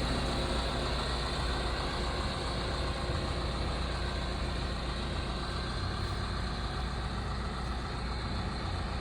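Liebherr R926 compact tracked excavator's diesel engine idling steadily.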